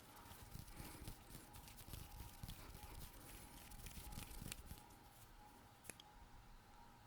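Close-miked hand sounds: skin rubbing and rustling against the microphone with quick light clicks and taps, dense for about four and a half seconds, then thinning to a few sparse clicks.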